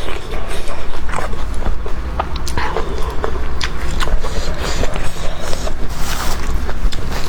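Close-miked eating sounds: chewing and crunching, with many short, irregular mouth and food clicks over a steady low rumble.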